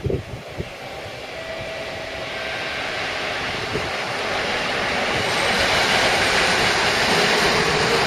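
Passenger train hauled by a PKP SU45 diesel locomotive rolling past. The rail and wheel noise grows steadily louder as the double-deck coaches go by. There are a few low thumps in the first second.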